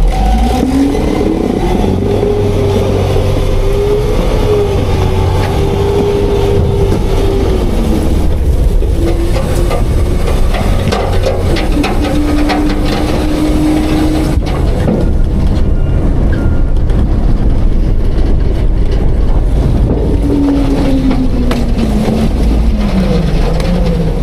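Autocar-Heil Freedom half-pack front-load garbage truck working its hydraulics: the diesel engine revs up at the start with a rising whine that holds for several seconds, falls, then steps and swings in pitch again, over a constant deep rumble, with scattered knocks and clanks partway through.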